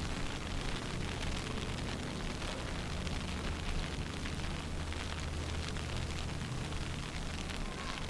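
Wind buffeting the microphone in a snowstorm: a steady low rumble under an even hiss.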